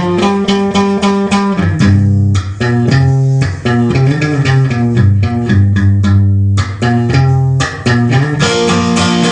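A rock riff on guitar with bass underneath: fast picked notes over held low bass notes.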